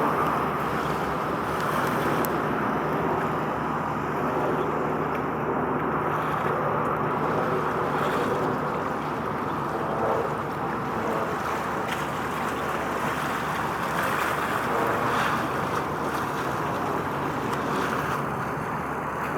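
Steady wind and water noise with a faint low steady hum beneath it, with no distinct events.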